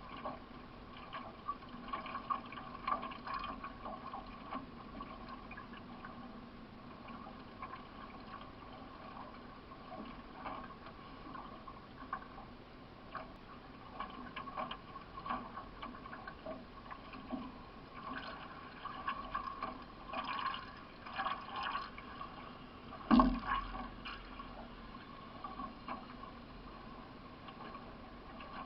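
Paddle strokes of a solo racing canoe, with water splashing and dripping off the blade in an irregular rhythm. One sharp knock a little over 23 seconds in, and a faint steady hum underneath.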